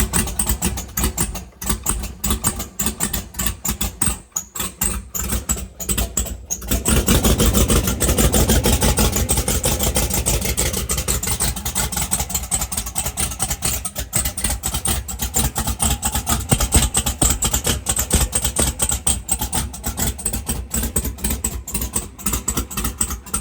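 Twin-turbo LS V8 engine running unevenly and choppily at first, then picking up about seven seconds in and settling into a louder, steady fast idle.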